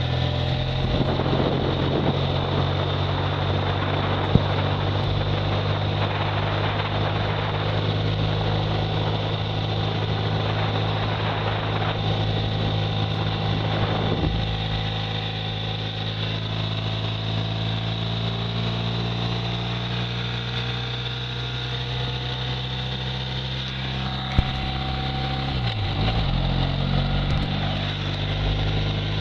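Motorcycle engine running steadily at cruising speed, with wind rushing over the microphone, heavier in the first half; the engine note dips briefly and comes back up near the end.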